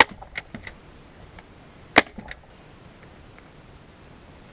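Staple gun firing twice, about two seconds apart, driving staples through a leather seat cover into a plastic seat base; each sharp shot is followed by a few lighter clicks.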